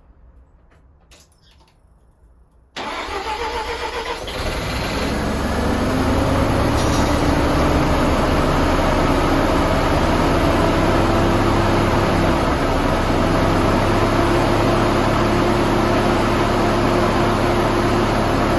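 Mazda RX-7 FC's 13B turbo rotary engine cranking for a second or so, catching about four seconds in and settling into a steady idle after being deflooded.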